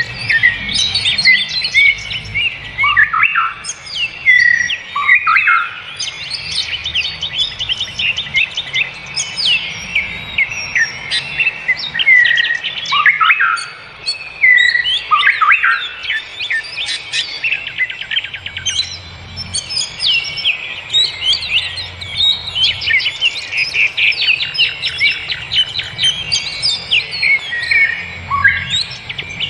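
Birds chirping without pause: many quick high chirps and rapid trills, with a few calls that fall in pitch.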